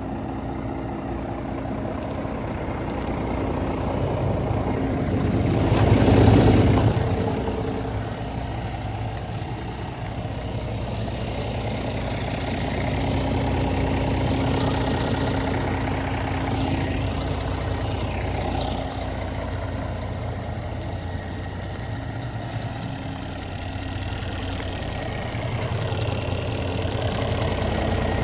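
Scania R450 tractor unit's 13-litre six-cylinder diesel idling steadily, swelling louder for a moment about six seconds in.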